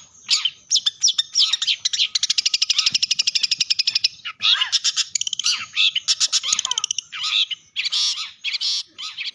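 A songbird singing loudly and energetically: a fast run of rapidly repeated chattering notes, then varied whistled and trilled phrases that break into shorter, spaced-out calls near the end.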